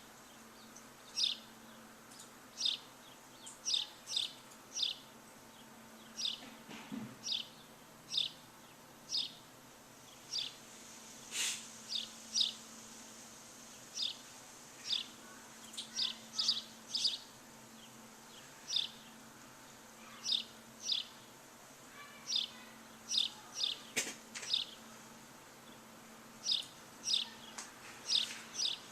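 A bird calling with short, high chirps that sweep downward, repeated about one or two a second at an uneven pace, over a faint steady low hum.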